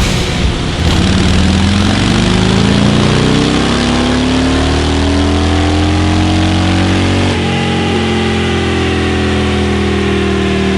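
Harley-Davidson Milwaukee-Eight 114 V-twin pulling hard with its pitch climbing steadily for about six seconds, then dropping suddenly and running on at a steadier pitch: a baseline dyno run on the stock engine.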